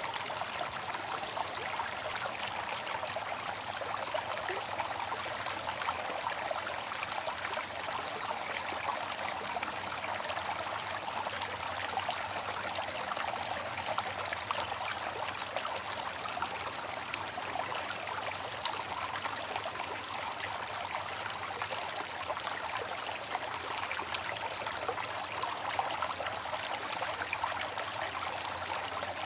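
Water fountain: water falling and splashing steadily into a pool, a continuous trickling patter with no pauses.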